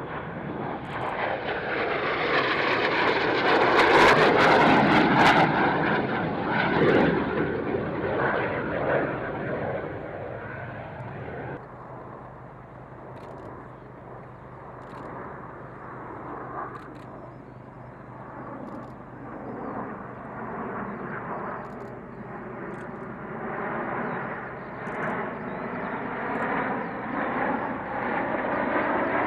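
Fixed-wing aircraft flying past, loudest about four seconds in and then fading. After an abrupt change near twelve seconds in, an aircraft engine's pitched tone builds again toward the end.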